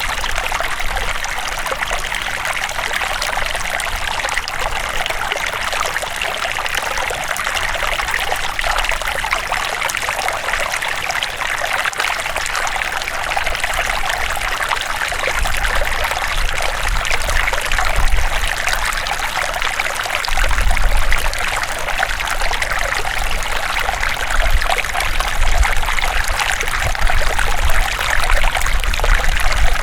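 River water running and babbling over rocks, a steady rushing hiss, with low rumbling swells in the second half.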